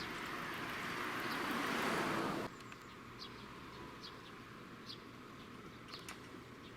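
A passing vehicle's road noise swells and then stops abruptly about two and a half seconds in. After that there is quiet outdoor air, with a small bird giving short high chirps about once a second.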